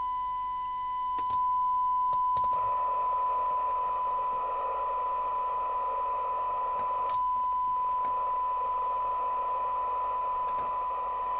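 Steady pure test tone from an FM CB radio's speaker: the signal generator's modulation tone, demodulated by the receiver during alignment. A few clicks in the first few seconds and one about seven seconds in, and from about two and a half seconds in a hiss of receiver noise rises behind the tone.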